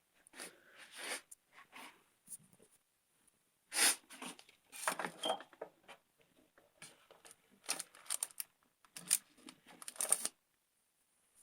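Irregular clicks, snaps and rustles of hands working with alligator clips and wire leads on a washing machine motor's terminals. There is no steady hum, so the motor is not yet running.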